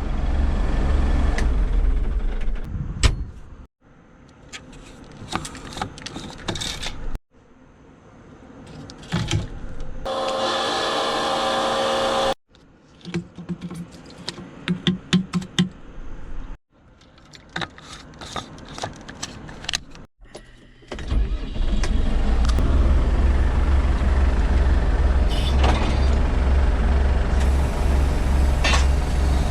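A vehicle engine in several short cuts, with clicks and knocks in some of them, ending in a steady, loud, low engine drone that lasts the last several seconds.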